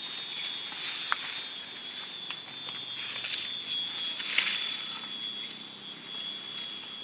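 Outdoor ambience with a steady high-pitched whine, broken by a few sharp clicks and short rustles; the loudest click comes a little after four seconds in.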